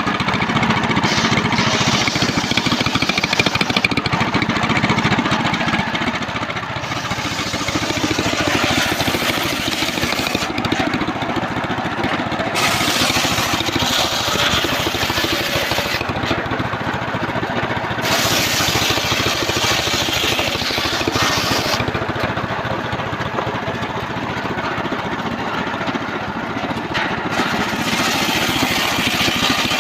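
Engine of a homemade circular sawmill running steadily under load while its blade rips a trembesi log, the high hiss of the cut strengthening and fading several times.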